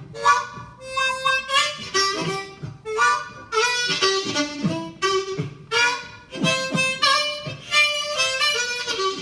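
Blues harmonica playing a fill between sung verses: short rhythmic phrases with bent, sliding notes.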